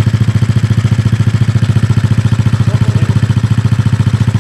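Kayo pit bike's small single-cylinder four-stroke engine idling steadily, with a fast, even exhaust beat, after its carburetor has been overhauled and adjusted.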